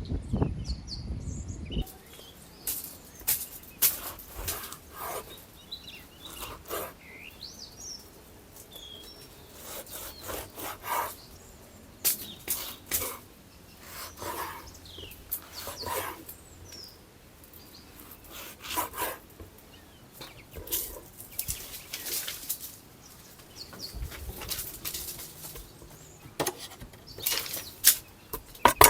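Irregular sharp clicks and cracks, spaced unevenly, with birds chirping faintly in the background.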